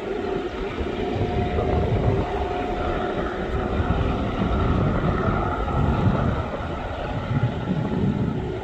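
Diesel train running, a steady low rumble.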